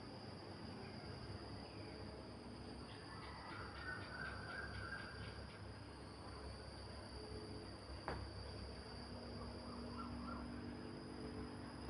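Low wind rumble under a steady high insect drone, with a short run of quick chirps about three to five seconds in and a single sharp click about eight seconds in.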